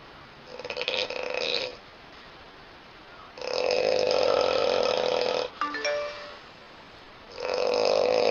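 A woman snoring: three snores about three seconds apart. The first is short and rattling; the next two are longer and held on a steady pitch, with a brief gurgle after the second.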